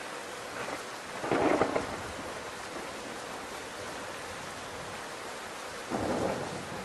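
Steady rain with two claps of thunder: a short loud one about a second in and a second one near the end.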